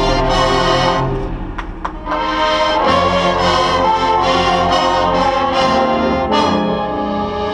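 Marching band brass playing sustained chords with percussion hits, dipping and then coming back in fuller about two seconds in.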